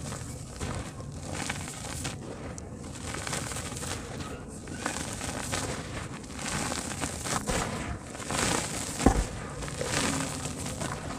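Soft dirt chunks crumbling and breaking apart in water, with irregular small clicks and one sharper knock about nine seconds in.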